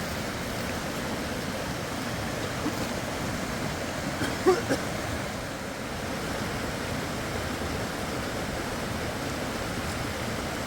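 River water rushing steadily, with a brief pitched sound about four and a half seconds in.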